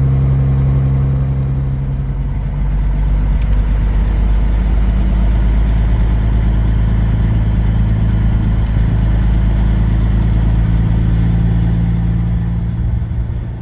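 Kenworth W900 semi truck's diesel engine running as the truck moves off, its pitch shifting about two seconds in and then holding steady.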